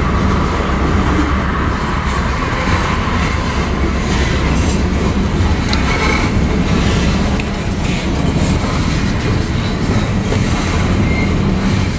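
Freight train of covered grain hopper cars rolling past, with a steady, loud noise of wheels running on the rails.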